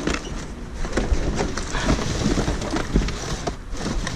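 Cardboard boxes being rummaged and shifted inside a dumpster: a run of scrapes, rustles and small knocks over a low rumble on the microphone.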